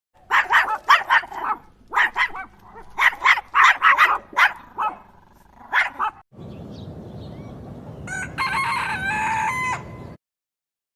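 Chickens calling: groups of short, sharp clucks for the first six seconds. After a cut, a rooster crows once, about two seconds long, over a steady background noise.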